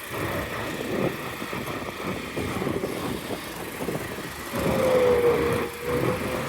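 Road traffic noise heard while riding an electric scooter through city traffic. A little past the middle comes a louder held tone, falling slightly in pitch, lasting about a second and a half.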